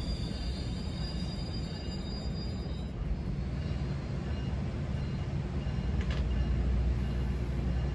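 Steady rumble of a GO Transit bilevel passenger train running on the rails, heard from inside the coach, growing louder in the second half. A thin high whine fades out about three seconds in.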